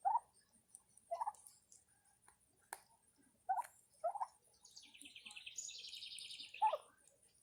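Turkeys giving short single calls, five in all, spaced a second or so apart. A small bird's rapid trill, about two seconds long, sounds behind them near the end.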